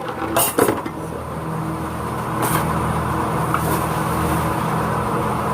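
A steady low mechanical hum runs throughout, broken by a few sharp clatters of pots and kitchenware, the loudest about half a second in and lighter ones later.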